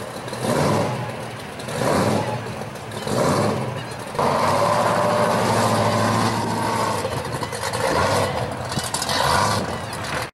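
Supercharged engine of a blown pro-street 1970 Chevrolet Camaro, revving in short swells, then, after a sudden jump in level about four seconds in, running steadily and loud as the car pulls out and drives away.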